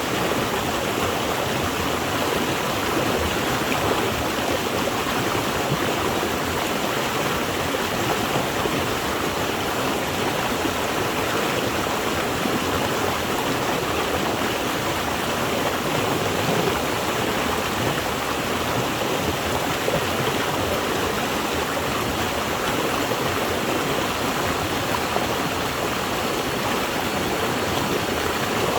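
Water flowing and splashing in a stream, a steady rushing that does not change.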